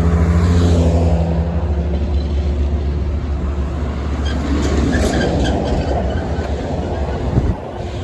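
Heavy vehicle running with a loud, steady low engine hum that gives way to a more even rushing noise after about four seconds, with a few faint high squeaks around the middle. The sound drops off suddenly near the end.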